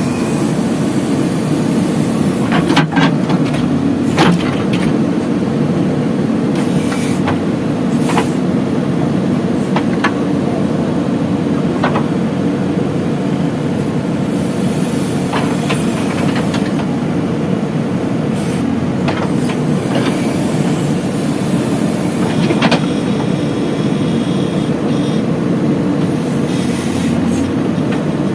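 Diesel engine of a JCB 3DX backhoe loader running steadily at work, with sharp knocks and clanks every few seconds.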